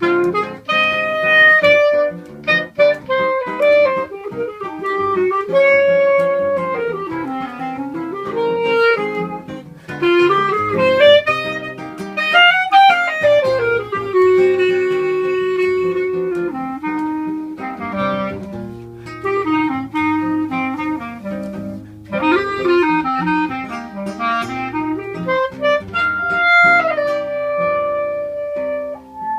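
Clarinet and seven-string guitar duo playing choro: the clarinet carries a flowing melody of held and moving notes over plucked guitar accompaniment.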